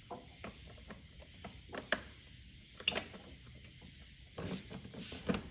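Scattered clicks and light knocks of parts being handled as a component is taken out under a car's hood, the sharpest about two and three seconds in and again near the end.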